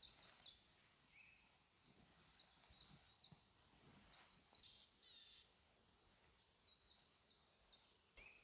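Faint birdsong: a steady stream of quick, high chirps and trills from small birds, one after another, with a lower whistled note about a second in and again near the end.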